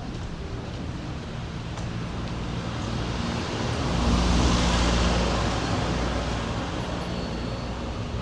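A motor vehicle passing close by, its engine hum and tyre noise swelling to a peak about halfway through and then fading.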